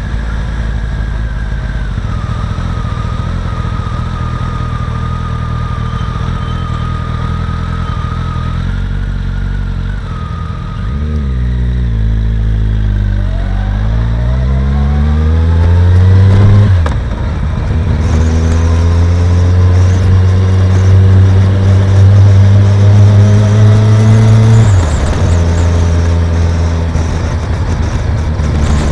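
Kawasaki ZZR1400 inline-four motorcycle engine running steadily, then revving up with rising pitch about halfway through, dropping suddenly at a gear change and holding a higher, louder steady note before easing off near the end.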